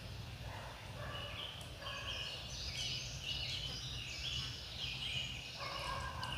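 Songbirds singing: a run of short whistled notes at several different pitches, over a faint steady low hum.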